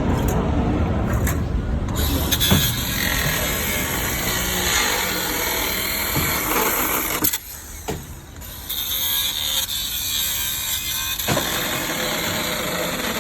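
Metal-cutting work on a semi-truck cab with an engine running: a loud, steady hiss over a low rumble, which cuts out for about a second a little past halfway and then picks up again.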